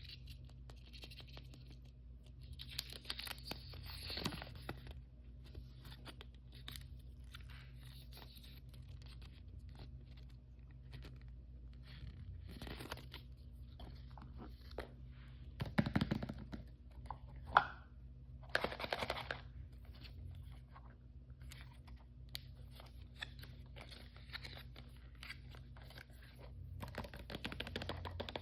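Blind-bag packaging being torn open and handled, a run of crinkling, tearing and small clicks, with a few denser bursts of rustling and one sharp click about two-thirds of the way through. A faint steady low hum runs underneath.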